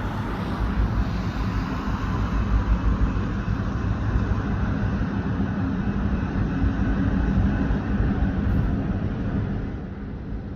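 Diesel locomotives idling with a steady low engine hum, with wind buffeting the microphone.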